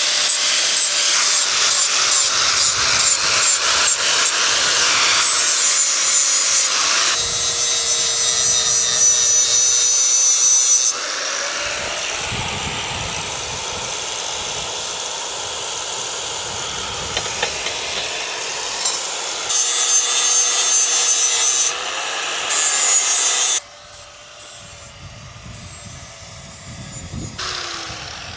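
Farrier's rasp filing a horse's hoof in quick repeated scraping strokes, in several short segments that change abruptly; quieter in the later part.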